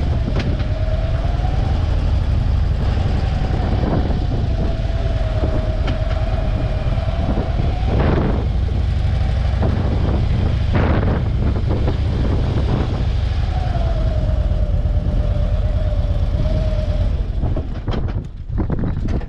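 A motorcycle running at road speed with heavy wind rushing and buffeting over the microphone in gusty conditions, and a wavering whine over the rumble. About eighteen seconds in the noise drops and turns uneven as the bike slows down.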